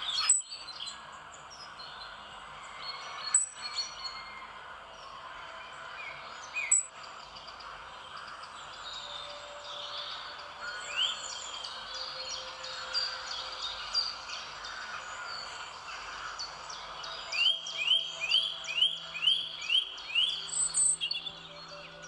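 Wild birds calling over a steady background hiss: three sharp, loud calls a few seconds apart early on, scattered chirps, then a quick run of about eight rising shrill calls near the end.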